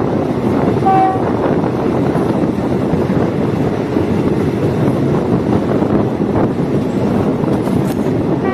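Diesel multiple unit train running along the track with a steady, loud rumble. A short pitched tone sounds about a second in.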